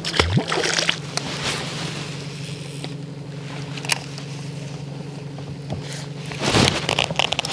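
A boat motor running steadily with an even low hum, with a few knocks and rustles of handling gear about a second in, at about four seconds and near the end.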